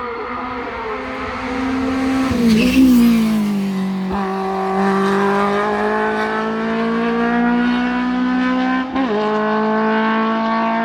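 A race car's engine runs hard on a hill-climb run, holding a strong, high-revving note. Its pitch drops at a gear change about three seconds in, climbs slowly, and shifts again near nine seconds in.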